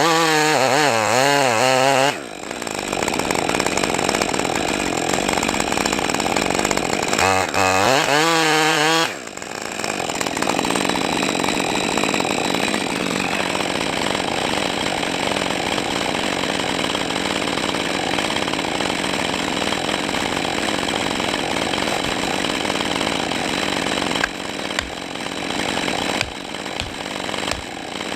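Chainsaw engine revving with a wavering pitch, then cutting into wood under load for a long stretch. It revs freely again briefly about seven seconds in before going back into the cut, and the cutting breaks up with short dips near the end.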